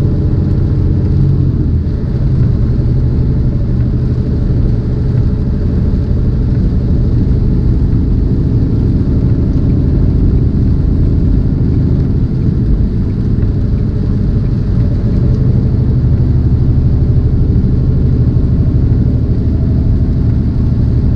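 Tractor-trailer's diesel engine and road noise droning steadily inside the cab while driving, a low hum with little higher sound.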